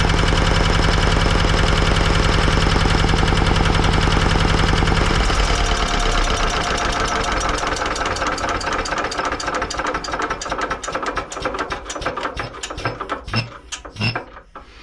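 Antique diesel generator running steadily, then shut off about five seconds in: its beats slow and spread out as it coasts down, the last few knocks coming just before the end.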